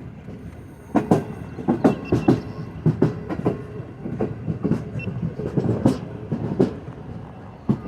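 Passenger train running along the track with a steady rumble. From about a second in, its wheels clatter over rail joints in a run of sharp, uneven knocks.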